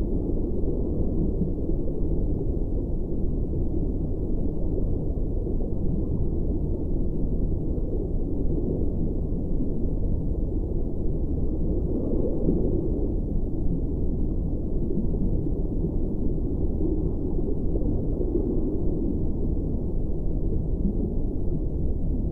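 Steady deep rumbling noise with no clear pitch, all low down, swelling slightly now and then: the low drone bed of a meditation sound journey.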